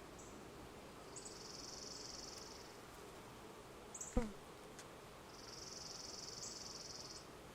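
Honeybees at an open hive give a faint steady hum. Over it come two long, high-pitched buzzing trills, each about two seconds, and a single sharp knock about four seconds in.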